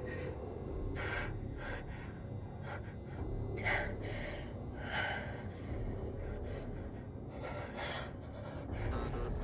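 A person gasping and breathing hard, in four or five sharp breaths a second or two apart, over a steady low hum.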